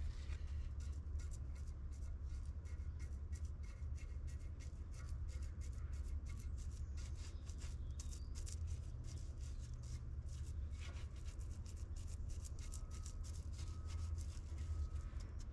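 Quick, irregular scratchy strokes of something being rubbed or scraped by hand on a surface, over a steady low hum.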